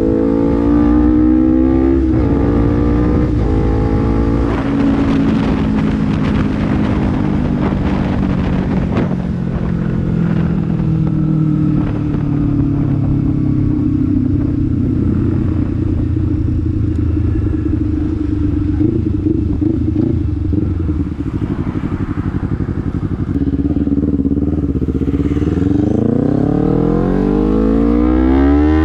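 Honda CBR250RR motorcycle engine through a Proliner slip-on racing exhaust, ridden on the road. The revs climb briefly at the start, fall away as the throttle closes, hold steady through the middle, then rise sharply under acceleration near the end.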